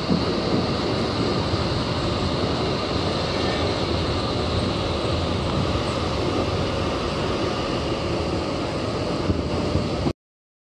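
Steady rumble of a train running on the track, heard from on board with wind noise. It cuts off suddenly about ten seconds in.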